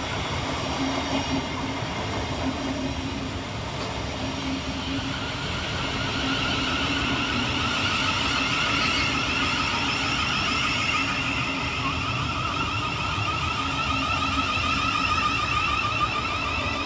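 Thameslink Class 700 electric multiple unit's traction motors whining, a wavering whine that slowly rises in pitch over a steady low hum.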